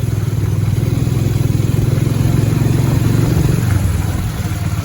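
Bajaj Pulsar 150 motorcycle's single-cylinder four-stroke engine running steadily under way, with a low, even pulsing exhaust note that eases slightly about four seconds in.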